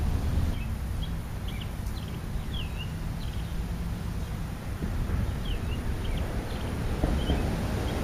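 Short chirps and quick whistled notes from small birds, scattered through, over a steady low rumble.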